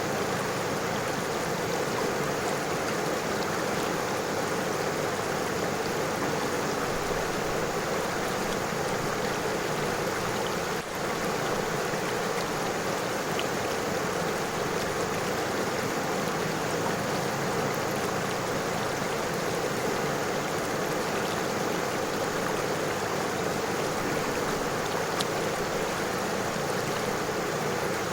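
River water flowing and babbling over stones, a steady, even rush.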